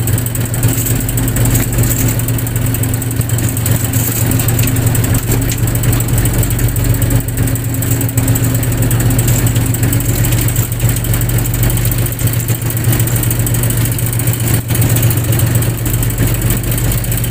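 Fishing boat's engine running steadily, a loud low drone with no change in speed.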